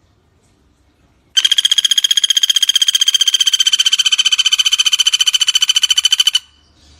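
Pelatuk bawang woodpecker giving one long, very fast rattling trill, starting a little over a second in and stopping abruptly about five seconds later.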